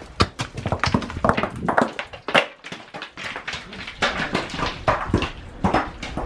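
Loose rock and gravel scraping and knocking irregularly under boots and hands during a scramble over a rocky cliffside, with a dislodged rock clattering away down the slope.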